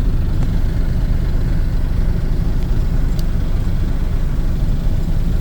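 Dump truck's diesel engine idling steadily, a low rumble heard from inside the cab while the truck waits.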